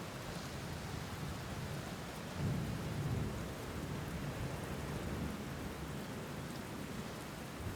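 Steady rain falling, with a low rumble of thunder swelling about two and a half seconds in.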